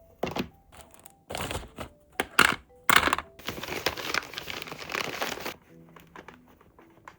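Packaging being handled and crinkled: a string of sharp rustles and clicks, then a longer crinkle lasting about two seconds near the middle, over soft background music.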